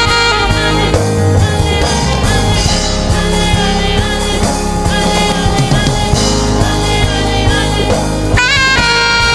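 Live gospel band playing an instrumental, with keyboard, drum kit and bass guitar under a saxophone lead. A bright saxophone phrase comes in strongly near the end.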